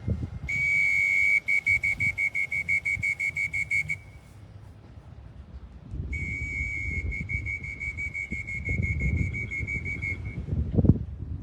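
Electronic beeper of a pigeon-race clocking system at the loft trap, sounding as arriving birds are registered. It gives a high steady beep that breaks into rapid beeping of about five a second, in two runs a few seconds apart. A sharp knock comes near the end.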